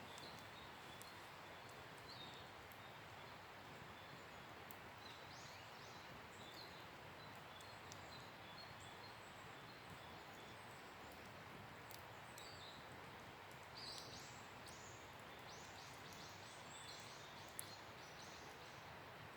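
Faint wood fire burning, with a low steady hiss and scattered small crackles, one sharper pop near the end. A bird calls a few times, then in a quick run of short calls in the second half.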